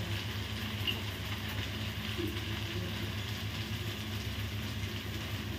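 Steady low hum under a faint, even sizzle from fried rice cooking in a steel kadai over a gas burner.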